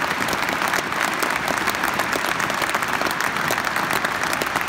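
Stadium football crowd applauding steadily, a dense crackle of thousands of hands clapping in tribute.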